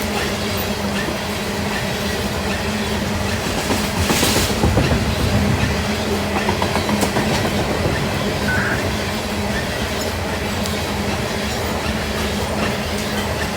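Norfolk Southern freight train rolling past, a steady rumble of its cars with wheels clacking over the rail joints and a brief hiss about four seconds in.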